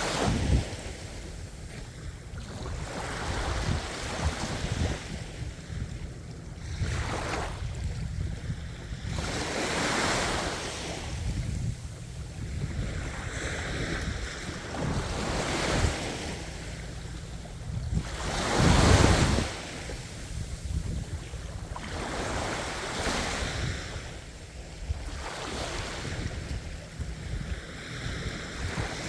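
Ocean waves breaking and washing in, one swell every few seconds, the loudest a little past two-thirds of the way through, with wind rumbling on the microphone.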